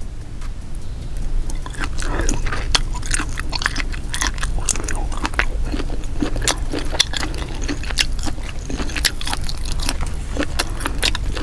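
Close-miked chewing and biting of grilled squid: a run of irregular mouth clicks that starts about a second and a half in and keeps going.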